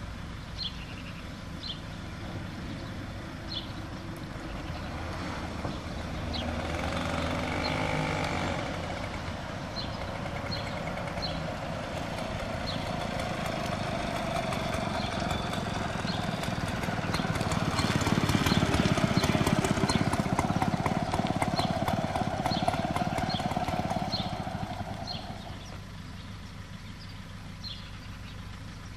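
Small two-stroke moped engines running, one swelling louder with a rapid ticking beat past the middle of the stretch and then fading away. Short high chirps recur throughout.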